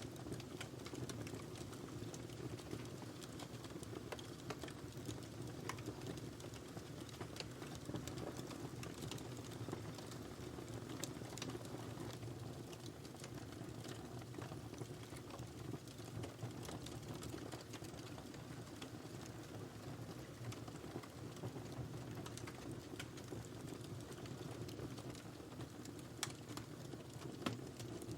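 Wood fire burning in a fireplace: a steady low rumble of the flames with many small, irregular crackles and pops, and a couple of sharper pops near the end.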